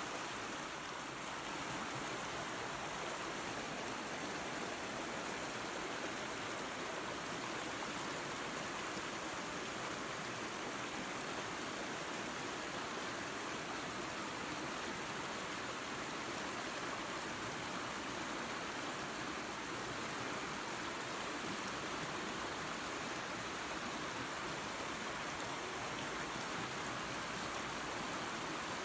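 Waterfall and creek water rushing in a steady, unbroken stream of noise.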